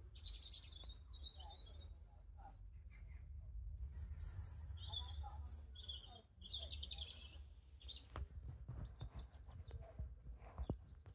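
Small garden birds chirping, a string of short high calls coming every second or so, over a steady low rumble.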